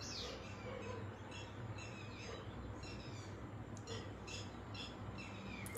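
Faint birds chirping in the background, short scattered calls with one falling note near the start, over a low steady hum. A sharp click near the end.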